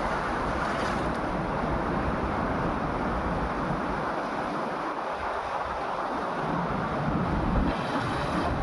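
Steady rush of storm-driven water, with wind buffeting the microphone in uneven low gusts.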